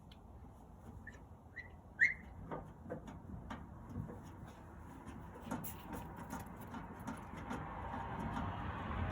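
Scattered clicks and metal rubbing of tools and smoker parts being handled as screws are taken out of the pellet smoker's pan. Three short high chirps sound about one to two seconds in, and a steadier rustling scrape builds from about seven seconds in.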